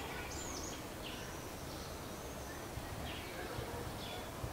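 Steady outdoor background noise with a few faint, high-pitched bird calls: one near the start, one just after a second, and a fainter one about three seconds in.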